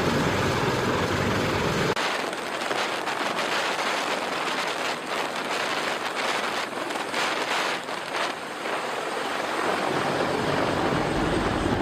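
CH-53K King Stallion heavy-lift helicopter turbines and rotors running, with wind buffeting the microphone. About two seconds in the deep low rumble cuts out abruptly and gives way to a thinner, hissing turbine-and-wind noise. The low rumble builds again near the end.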